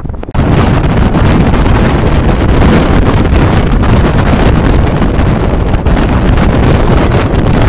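Strong wind buffeting the microphone, a loud, steady rumbling noise that jumps up suddenly just after the start.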